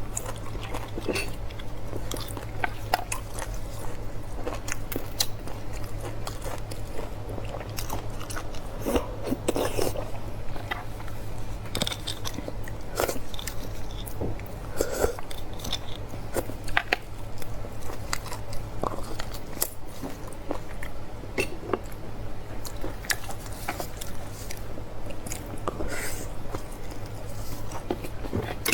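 Close-up chewing, biting and wet mouth smacks of people eating beef bones and their marrow, in many irregular short clicks. A steady low hum sits underneath.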